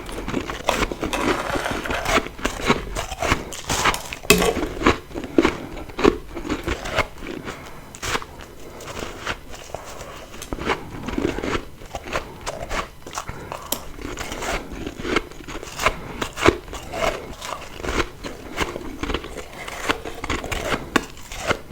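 Close-miked biting and chewing of refrozen freezer frost: a dense, irregular run of crisp crunches and crackles as the icy frost is crushed between the teeth.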